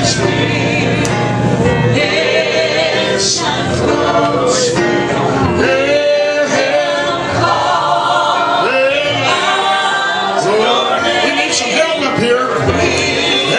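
Gospel music: voices singing together over instrumental accompaniment, at a steady level.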